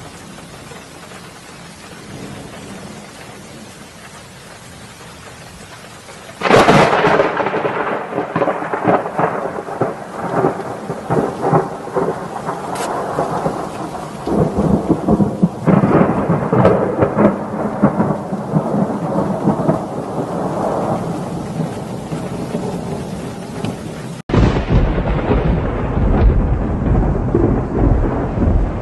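Thunderstorm: steady rain hiss, then about six seconds in a sudden crack of thunder breaks into a long crackling rumble, and a second roll of thunder follows midway. Near the end, after a brief dropout, deeper thunder rumbles on over the rain.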